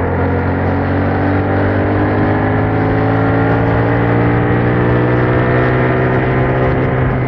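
Yamaha MT-07's 689 cc parallel-twin engine running through its stock exhaust under steady throttle. Its pitch rises slowly as the bike gathers speed, then holds level for the last couple of seconds.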